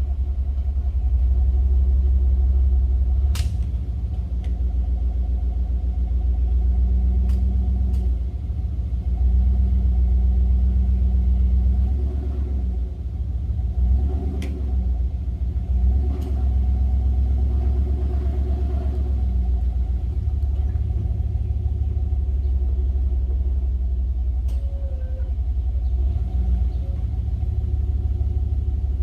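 A motor vehicle engine running at low revs, its pitch rising and falling a few times in the middle as it is throttled, with a few sharp clicks or knocks over the top.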